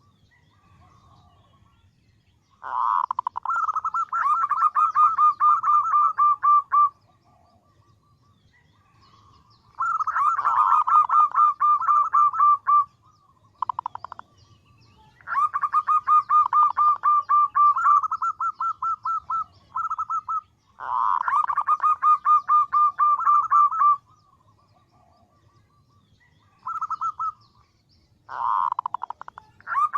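Female zebra dove (perkutut) calling to males in bouts of rapid, evenly repeated notes. Each bout lasts a few seconds, with short quiet gaps between bouts.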